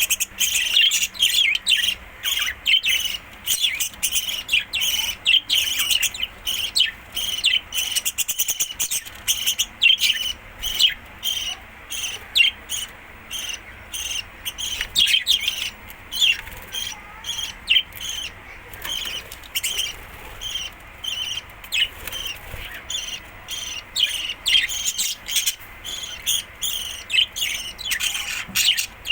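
Budgerigars chattering: a continuous stream of short, quick chirps and warbles.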